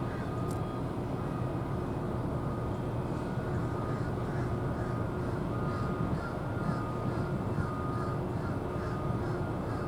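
Steady low rumble of port vehicles and machinery, with a reversing alarm beeping at a regular pace and bird calls repeating over it from about three seconds in.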